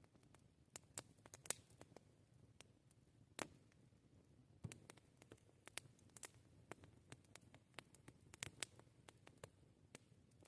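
Wood campfire crackling quietly: irregular sharp snaps and pops, several a second, over a faint low hiss.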